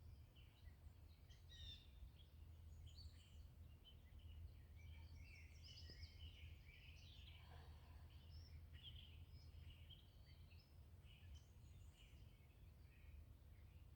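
Near silence with faint birdsong: scattered short chirps and calls from several birds, over a low steady rumble.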